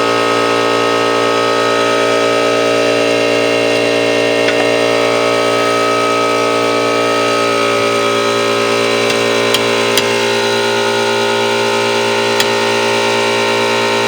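Small electric air compressor running steadily with a hum and whine, cutting off abruptly at the end. The owners say it isn't building enough pressure and sounds like it's burning.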